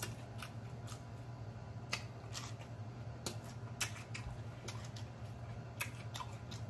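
Close-up chewing of a mouthful of crusted fried food: irregular wet mouth clicks, lip smacks and crackles, a few a second, over a low steady hum.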